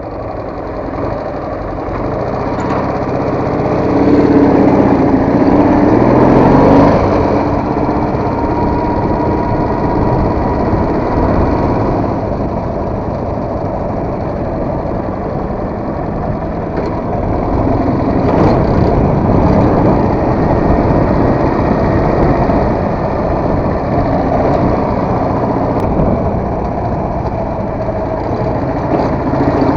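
Soviet motorcycle engine running under way, revving up about four to seven seconds in and then running fairly steadily.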